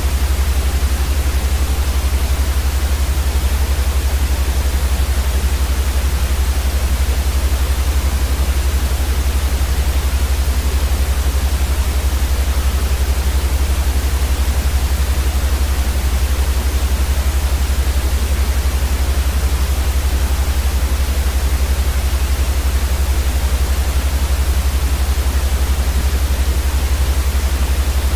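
Steady white noise for sleep: an even, unbroken hiss with a strong deep rumble underneath, unchanging throughout.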